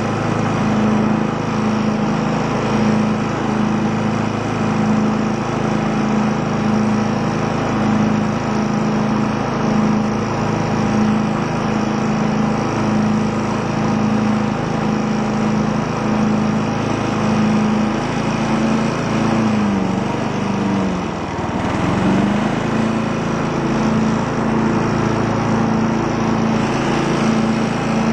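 Craftsman lawn tractor's engine running steadily. About twenty seconds in, its speed sags briefly and then picks back up.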